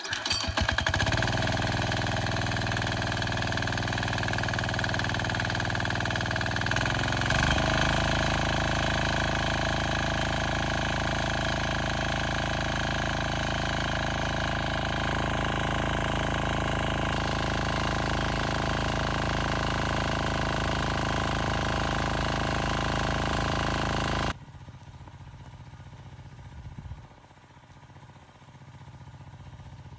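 A small engine running steadily, its pitch stepping up about seven seconds in. It cuts off suddenly after about 24 seconds, leaving quieter outdoor background sound.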